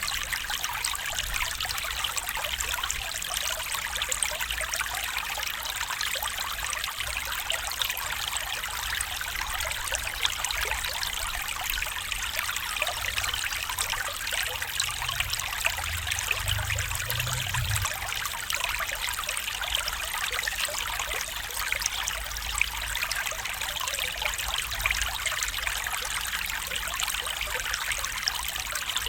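Small stream trickling and babbling steadily over stones, with a brief low rumble around the middle.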